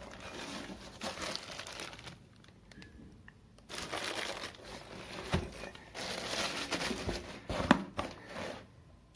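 Packaging crinkling and rustling in two spells as it is handled, with a couple of short knocks.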